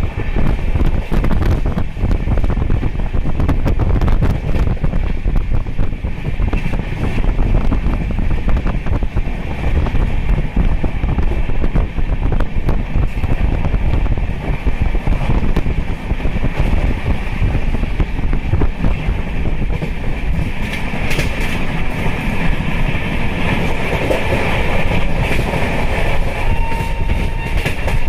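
Indian Railways passenger train running at speed, heard from on board: a steady rumble and hiss of wheels on rail, with irregular clicks from the track.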